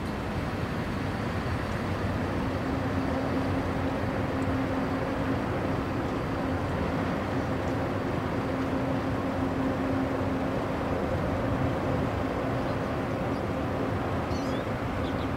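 A train running by: a steady rumble with a held hum that sets in about two seconds in.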